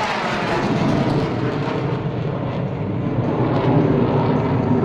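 Jet noise from fighter jets in flight, most likely the Thunderbirds' F-16s: a steady, loud rushing roar that swells slightly near the end.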